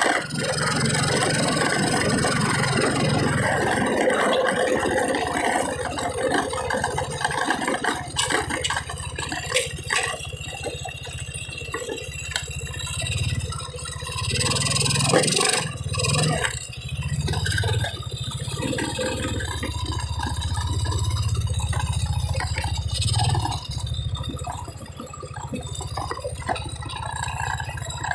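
Car engine running, heard from inside the cabin: a steady low hum with scattered knocks and rattles.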